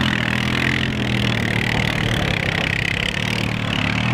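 A vehicle engine running at a steady speed, with a steady hiss of noise over it.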